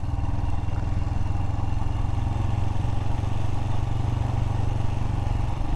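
Royal Enfield Himalayan's single-cylinder engine running steadily under way, at an even pitch with no revving.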